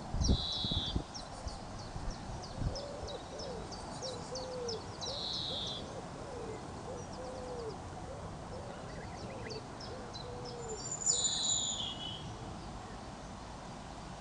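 Birdsong. A bird gives a long run of low, soft hooting or cooing calls over several seconds, while other birds add high chirps and short whistled calls. There are a couple of low thumps in the first second.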